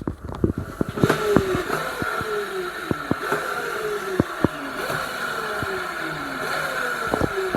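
Dirt bike engine running just after being started, its pitch sagging slowly several times, with scattered sharp clicks.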